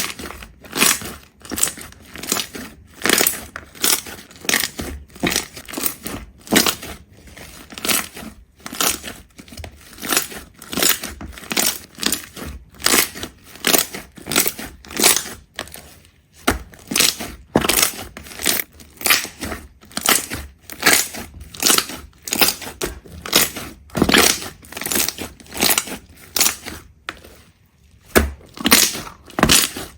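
A rapid, regular series of short crunching sounds, about one and a half a second, as something brittle is crushed or cut stroke after stroke, with a brief pause twice.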